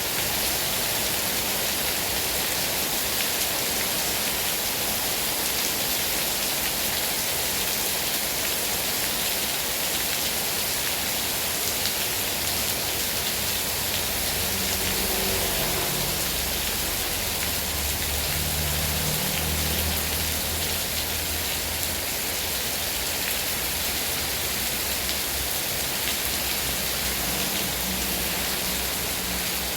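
Heavy rain falling steadily, a dense even hiss of drops. A low rumble rises underneath it for several seconds around the middle.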